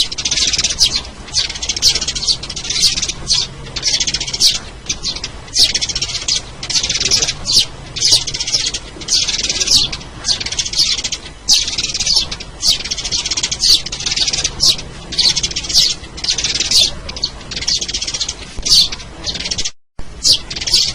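Sparrows chirping in a busy, continuous chatter of high chirps, several a second. The sound drops out for a moment near the end.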